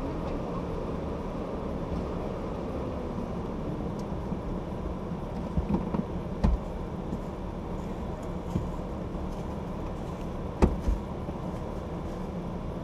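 Vehicle engine idling steadily, a constant low hum, with a few short knocks about halfway through and two more near the end.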